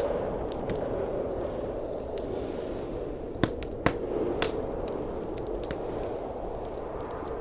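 Wood fire crackling, with scattered sharp pops, the loudest two about three and a half seconds in, over a steady rush of blizzard wind.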